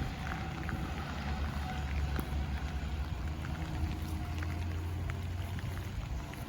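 Heavy rain falling, with scattered drops ticking close by, over a steady low rumble.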